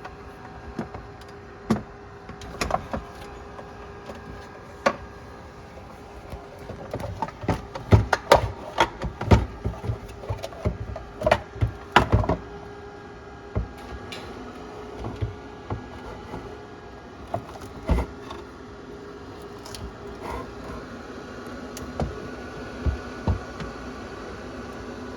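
Scattered sharp clicks and knocks of refrigerator parts and tools being handled during repair work, busiest about a third of the way in, over a steady hum.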